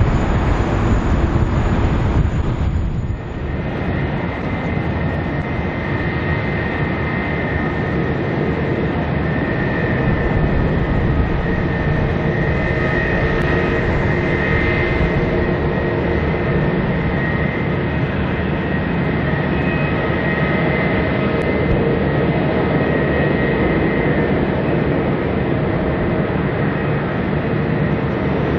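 Twin-engine jet airliner on its landing approach. After a break about three seconds in, a Boeing 787 Dreamliner's jet engines give a steady whine with several held tones over a rumble.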